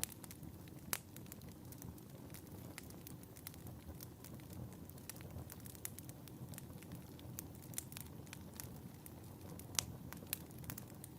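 Wood fire burning in a fireplace: a steady low rumble of flames with frequent sharp crackles and pops, two louder pops about a second in and near the end.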